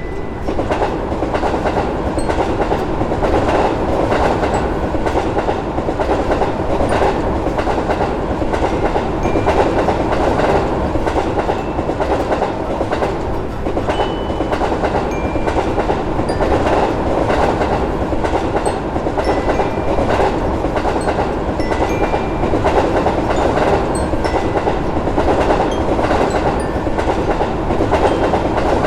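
A long train passing: a steady rolling rumble with the clickety-clack of wheels over rail joints.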